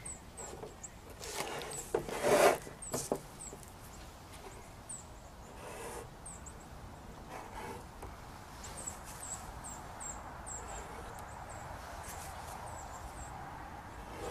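Small songbirds chirping, short high-pitched chirps repeating on and off and coming more often in the second half. About two seconds in, a brief burst of rustling and clicks, the loudest sound, from paintbrushes being handled.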